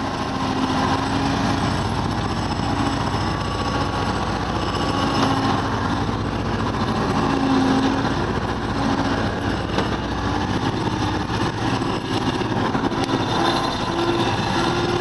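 Ural truck engine running steadily, its pitch wavering up and down and rising a little near the end.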